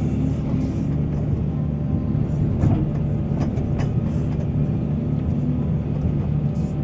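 Heavy excavator's diesel engine running steadily under load, with a few short knocks and clanks near the middle.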